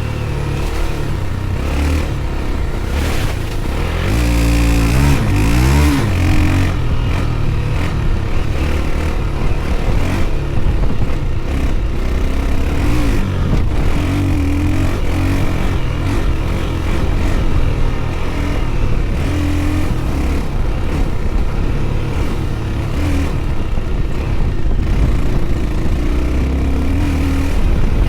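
Dirt bike engine running under load on a trail ride, revving and easing off as the rider works the throttle, with a sharp rise in pitch about four seconds in.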